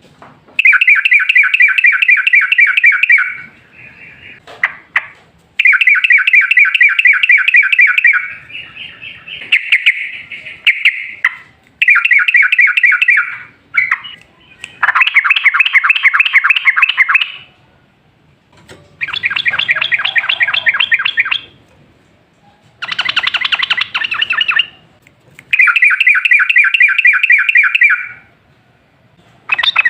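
Yellow-vented bulbul (trucukan) singing: about nine loud bursts of fast, bubbling chattering notes, each lasting two to three seconds, with short pauses between them. This is the long rapid-run ('ropel panjang') song that is used as a lure to set other bulbuls singing.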